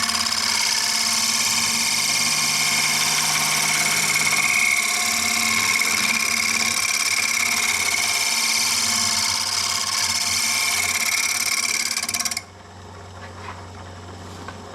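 Turning tool cutting the spinning mesquite bowl on a wood lathe, a steady hiss and scrape over the motor's hum. The cut stops suddenly about twelve seconds in, leaving the lathe running quietly.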